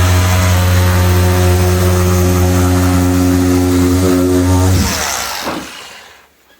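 Power tool cutting out a plasterboard ceiling, its motor running steadily, then switched off about five seconds in and winding down.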